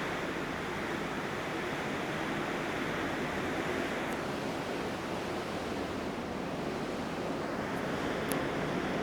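Steady rushing noise of wind and sea water, with a faint tick near the end.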